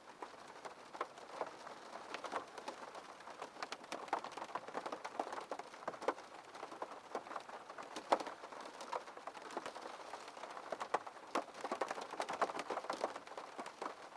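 Rain falling on a window pane: a dense, irregular stream of small drop ticks over a steady hiss.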